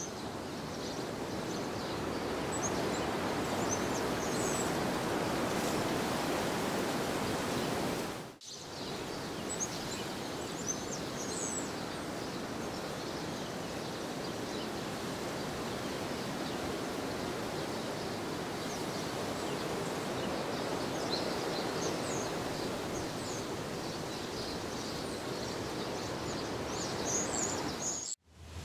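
Steady outdoor ambience: an even rushing noise with small birds chirping now and then above it. The sound drops out sharply twice, about a third of the way in and just before the end.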